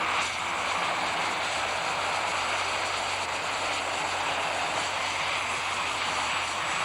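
Pulling tractor's engine running hard and steady under load, a dense mechanical noise with a high whine on top.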